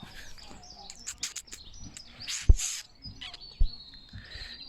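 Small birds chirping, with two dull thumps about two and a half and three and a half seconds in.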